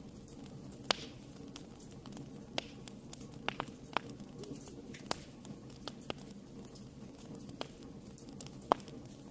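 Wood fire in a fireplace crackling: about a dozen sharp, irregularly spaced pops and snaps over the low steady sound of the burning flames. The loudest pops come about a second in and near the end.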